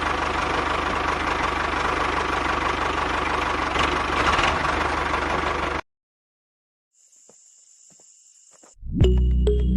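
Mini toy diesel engine water pump running steadily with a fast low pulse. It cuts off abruptly about six seconds in, then a faint high tone follows and music starts near the end.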